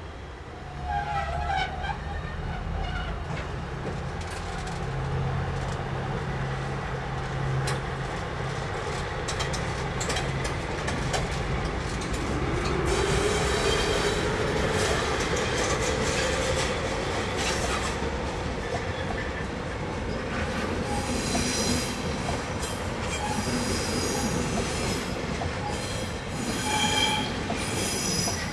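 Electric locomotive-hauled train of passenger coaches moving past on the tracks. Partway through, a whine rises and then holds steady, with clicking over the rails. In the last third, the wheels squeal high-pitched, on and off.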